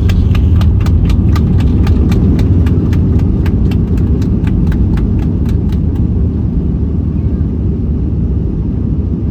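Cabin rumble of a Boeing 737 MAX 9 rolling out after landing, with a regular knocking of about four a second from the wheels running over the runway, which stops about six seconds in.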